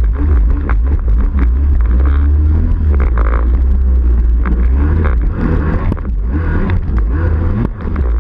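Yamaha Waveblaster's home-ported Yamaha 701 two-stroke twin, with Riva head, pipe and waterbox, running under way with a heavy low rumble, its revs rising and falling.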